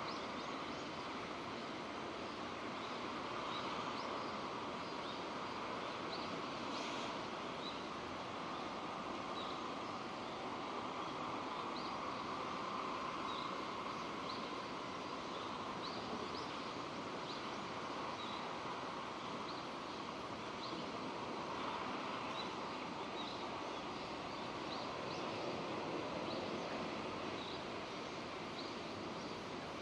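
Steady rainfall, an even hiss, with short high chirps recurring throughout.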